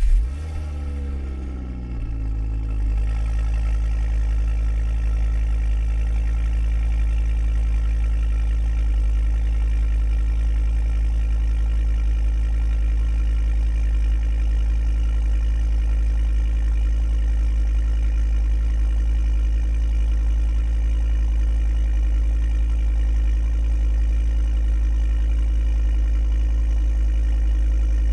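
Ford mk2 ST engine just after a cold start: it catches with a burst of revs that sweeps in pitch and settles within about three seconds into a steady, even cold idle.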